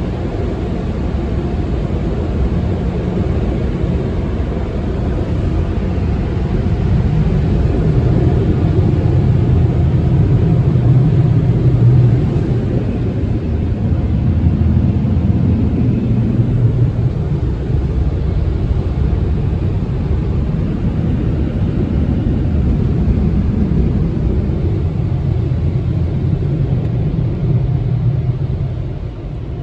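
Car wash tunnel dryer blowers, a loud steady roar of air over the car that eases off near the end.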